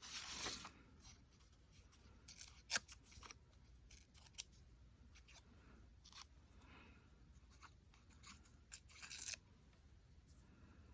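Scissors cutting paper, faint, in short irregular snips with pauses between them, the sharpest about three seconds in and a quick run of cuts near the end.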